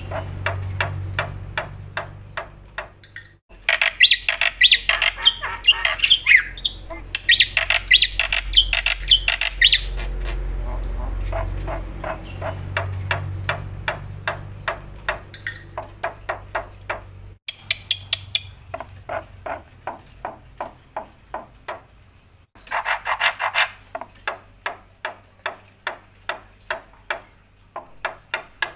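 Black-winged myna (jalak putih) in full, vigorous song: a fast run of sharp clicking notes throughout, broken by loud, harsh, high chattering calls from about three to ten seconds in and again a little past twenty seconds.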